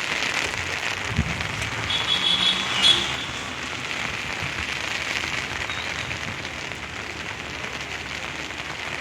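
Heavy monsoon rain falling steadily, pattering on an umbrella held close to the microphone. A short high-pitched tone sounds about two seconds in.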